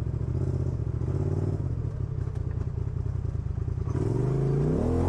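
Off-road vehicle engine running at low revs with a steady pulse. About four seconds in, music with a rising, gliding tone comes in over it.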